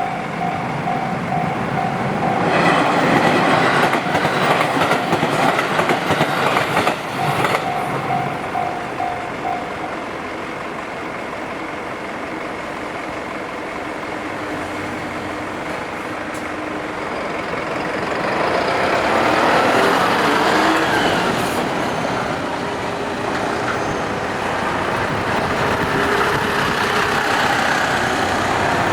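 Japanese level-crossing warning bell ringing in a steady pulse while a train passes over the crossing, its wheels clattering loudly for about five seconds. The bell stops about ten seconds in, and later another vehicle swells past.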